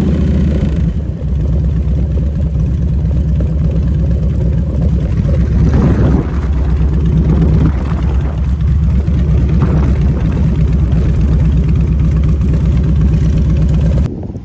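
Motorcycle engine running steadily under way, a loud low rumble of rapid firing pulses, which cuts off abruptly just before the end.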